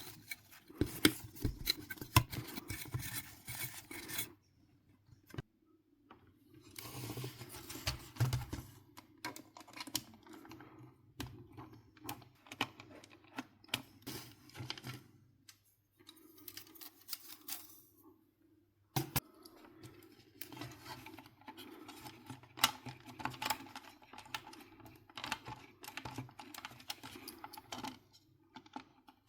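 Irregular clicks, taps and light rattles of small hard plastic and metal parts being handled during work on a PlayStation 4 console, with a few brief pauses.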